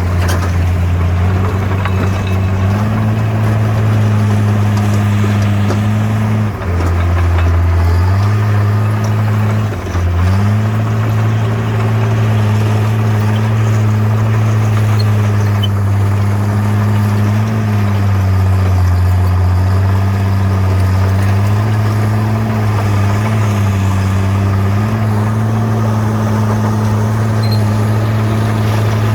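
Bulldozer's diesel engine running steadily under work. Its low note drops for a second or two about a quarter of the way in, dips again shortly after, then holds steady with small pitch shifts.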